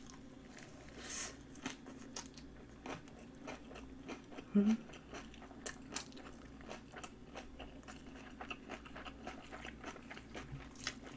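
Close-miked chewing of napa cabbage kimchi: a crunchy bite about a second in, then steady chewing with many small crunches and wet mouth clicks. A short hum from the eater comes about four and a half seconds in.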